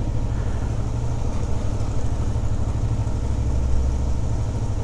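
Suzuki V-Strom's V-twin engine running steadily at low revs, a low, even rumble.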